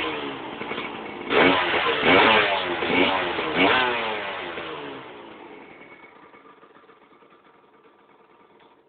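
Stock Aprilia MX 125's single-cylinder two-stroke engine blipped up and down in pitch three or four times, then settling to a steady tone that fades away gradually to near silence.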